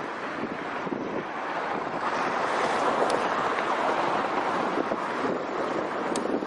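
Wind rushing on the microphone over the sound of a passing truck, which swells in the middle and eases off again.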